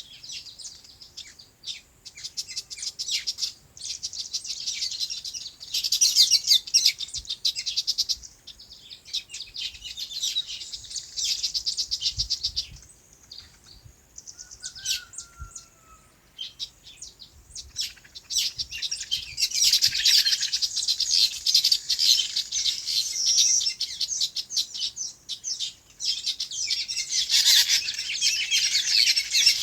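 Many small birds chirping rapidly together in bouts, a dense high twittering that thins out about halfway through and then comes back more strongly.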